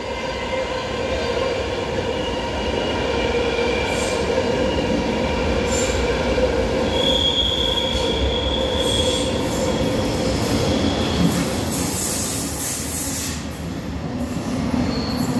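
City Airport Train double-deck passenger train running through an underground station without stopping: a steady rumble of wheels on rails with a humming drive tone, and a high-pitched wheel squeal from about seven to ten seconds in.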